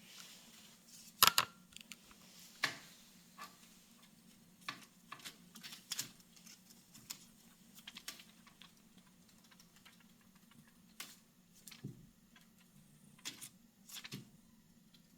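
Irregular light taps and clicks, the loudest a quick double click about a second in, over a steady low hum.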